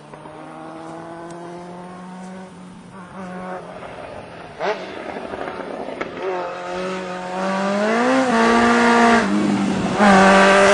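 Vintage racing motorcycle engines accelerating up a hill-climb course. The engine note climbs and drops sharply about eight seconds in, and the sound is loudest near the end as a bike comes close.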